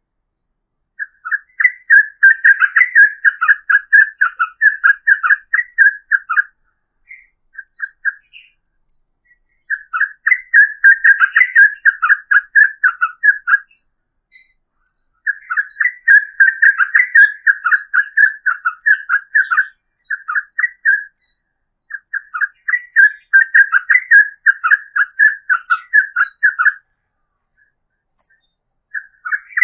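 Yellow-vented bulbul (trucukan) singing long runs of rapid chattering notes, four phrases of about five seconds each, separated by short pauses with a few single notes between.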